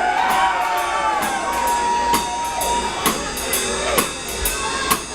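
Live psychobilly band music: a drum kit keeps a steady beat with snare and cymbal hits, under sustained, bending notes.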